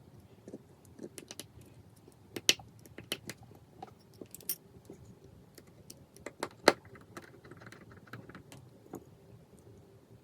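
Scattered sharp clicks and light taps of small phone parts and tools being handled while reassembling an iPhone, with the loudest clicks about two and a half and six and a half seconds in.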